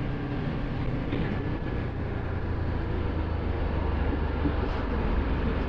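Ducati Multistrada 1260 S's L-twin engine running at a steady cruise, with a steady rush of wind and road noise over it.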